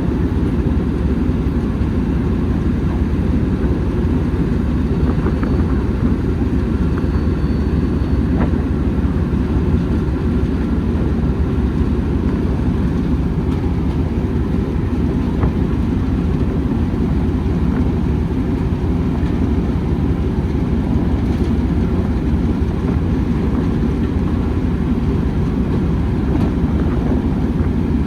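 Steady low rumble of a train on the move, with a few faint clicks.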